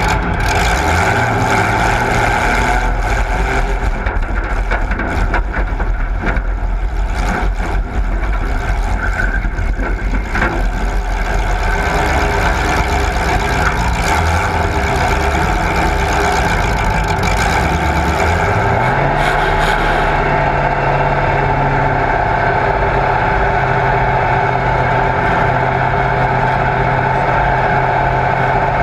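Loud motor vehicle engines running, with scattered sharp knocks in the first ten seconds or so. About nineteen seconds in, one engine's pitch rises and then holds steady.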